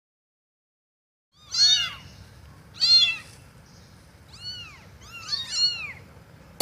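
A cat meowing several times, short calls that rise and fall in pitch, over a faint low rumble.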